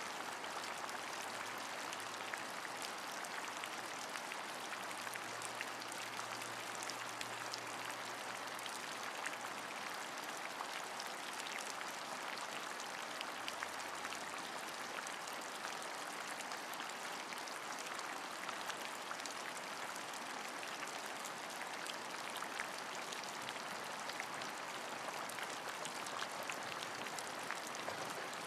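Steady rain, many small drop hits pattering over an even hiss.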